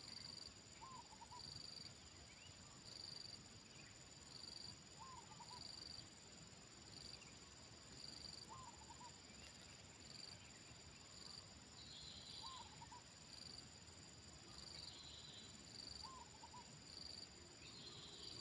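Spotted dove cooing faintly, a short phrase repeated five times, every three to four seconds, over high-pitched insects chirping in short, even pulses.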